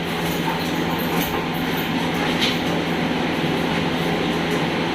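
Steady mechanical running noise with a constant low hum, like a motor or machine running continuously.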